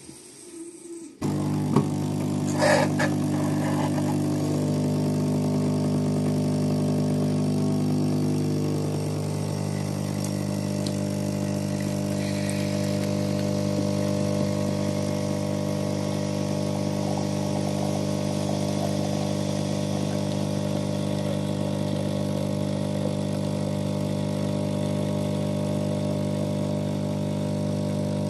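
The KOTLIE AC-513HF coffee machine's pump switches on about a second in and runs with a steady, even buzz while dispensing. A short rattle comes just after it starts.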